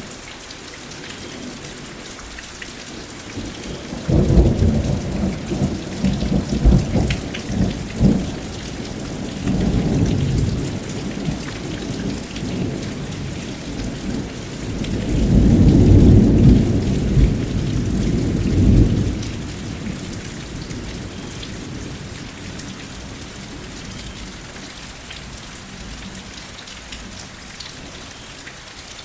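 Steady rain falling, with rolling thunder that crackles and rumbles a few seconds in, swells again and peaks loudest near the middle, then dies away, leaving the rain alone.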